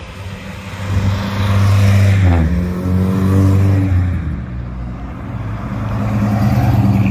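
Classic car engines driving past one after another. The first goes by with its pitch falling at about two seconds in, then a second engine, a 1960s American hardtop's, grows louder as it pulls up close near the end.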